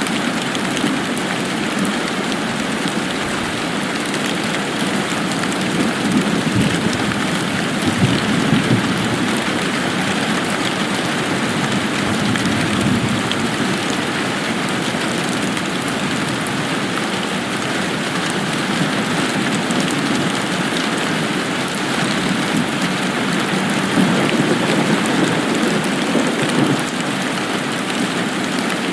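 Steady rain falling and pattering on surfaces, a continuous even hiss, with a low rumble swelling up twice, about a quarter of the way in and again near the end.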